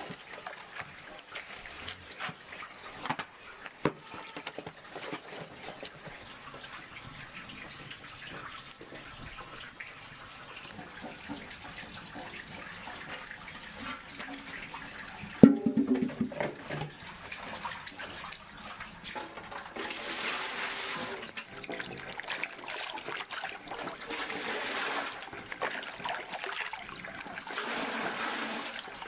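Water trickling and splashing, growing louder in the last third, with one loud sharp knock about halfway through.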